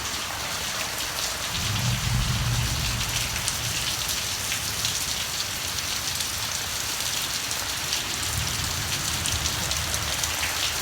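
Heavy rain pouring steadily. A low rumble of thunder swells about two seconds in, and a fainter one follows later.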